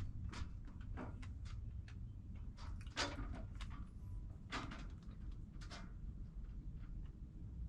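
Irregular soft knocks and clicks from a boat at anchor, the sharpest about three seconds in and again a second and a half later, over a steady low rumble.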